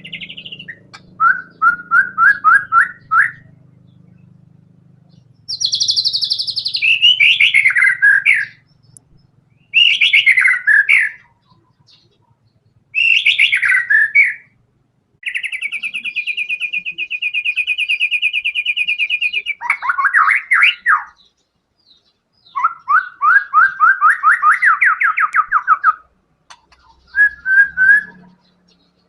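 White-rumped shama singing in loud separate phrases with pauses between: rapid runs of repeated notes, falling slurred whistles, and near the middle one long fast trill lasting about four seconds.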